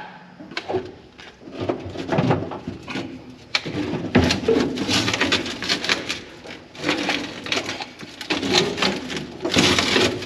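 Repeated knocks, clunks and scraping of heavy objects being handled and set down.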